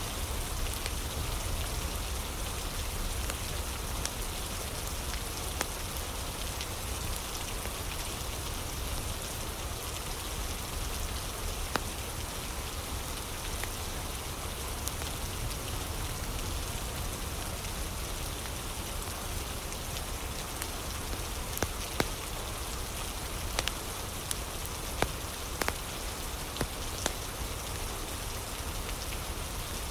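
Steady rain with scattered sharp pops and snaps from a crackling fire, the pops coming more often in the second half.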